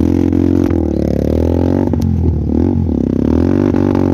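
Motorcycle engine revving up and down repeatedly as the rider throttles to free the bike, which is stuck on a slippery, broken road and won't come out.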